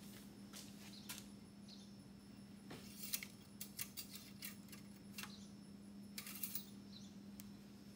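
Faint clicks, taps and light scrapes of small hard parts being handled, clustered about three seconds in and again near six seconds in, over a steady low hum.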